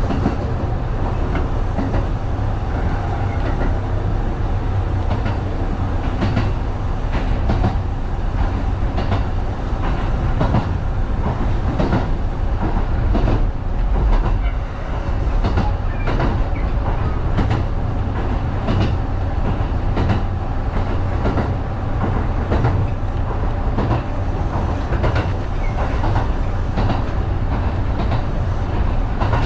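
Kintetsu 1010-series electric train running along the line, heard from the front of the train: a steady rumble with frequent clicks and knocks of the wheels over the track.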